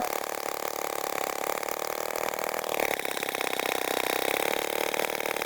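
Small motor of a home-made mini tractor running steadily with a fast, even buzz; a higher whine joins about three seconds in.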